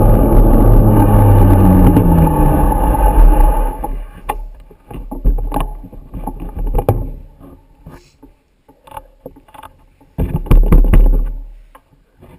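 A vehicle running with loud wind noise for the first few seconds, its engine pitch falling as it slows; it then drops away, leaving scattered knocks and gusts of wind buffeting the microphone.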